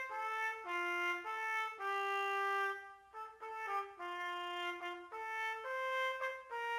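A trumpet playing a melody of held notes that step up and down in pitch, with a brief pause about three seconds in.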